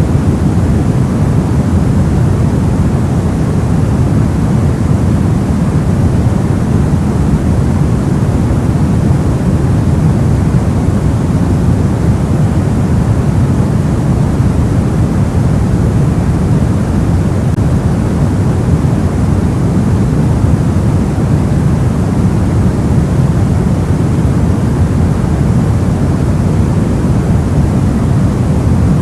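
Soft white noise, a steady, unbroken hiss weighted toward the low end so it sounds deep and muffled rather than bright, with no variation.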